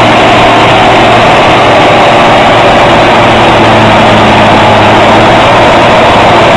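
A heavy vehicle engine running steadily and very loud, with a dense, constant noise over a low engine hum.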